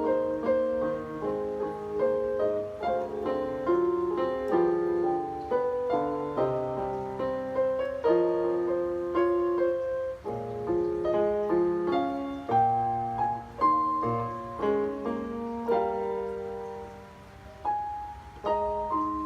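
Piano music: a melody played over chords, growing softer briefly near the end before a new phrase begins.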